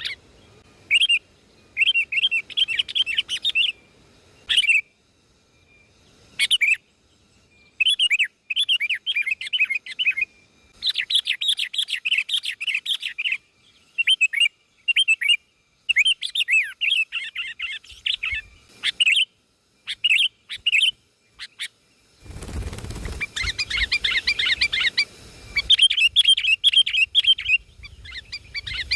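A bird chirping in quick twittering phrases of a second or two, with short pauses between them. About two-thirds of the way through there is a few-second burst of low rumbling noise under the chirps.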